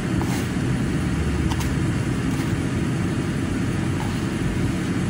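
Steady low rumble of a car's engine idling, heard from inside the cabin, with a few faint clicks.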